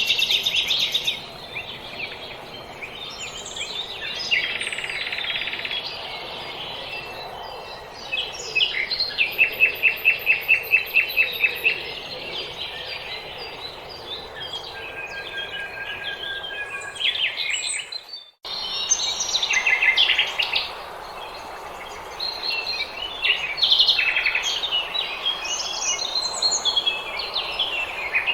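Several small songbirds singing in a spring dawn chorus: overlapping chirps, short calls and trills over a steady outdoor hiss. A loud, rapid run of repeated notes sounds from about 8 to 12 seconds in. The sound cuts out for a split second a little past the middle.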